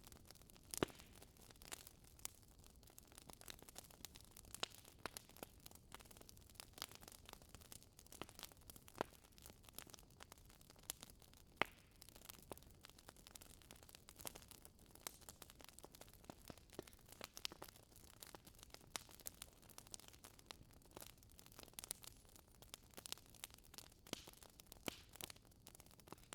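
Wood fire crackling in a fireplace: quiet, irregular sharp pops and snaps, a few louder than the rest, over a faint hiss.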